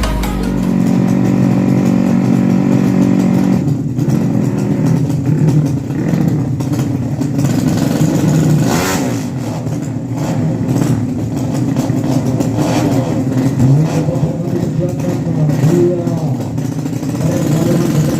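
Motorcycle engine running, its pitch rising and falling a little as it is revved.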